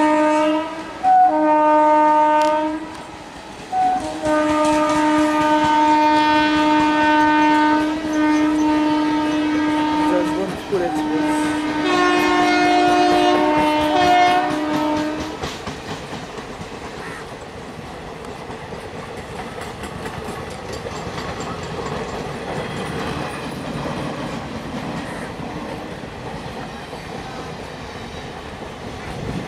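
Train horn sounding in four blasts, two short and then two long, the last on a slightly different chord. Then the steady rumble and clatter of passenger coaches' wheels on the rails as the train goes by.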